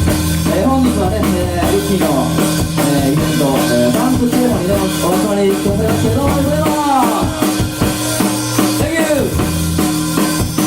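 Live band playing an upbeat number: drum kit and sustained bass notes under a lead line that glides up and down in pitch.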